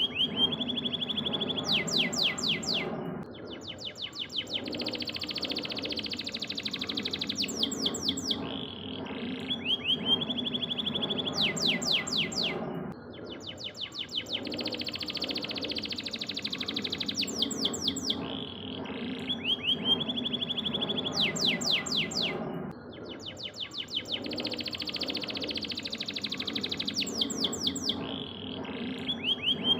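Yellow canary singing fast trills and rapid rolls, played as a masteran tutor song for training other songbirds. The same run of phrases repeats about every ten seconds, as a looped recording, over a steady lower background sound.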